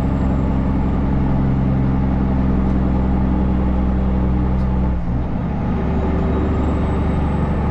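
Kenworth C500 truck's diesel engine idling steadily. About five seconds in the sound changes as the engine's cooling fan kicks on.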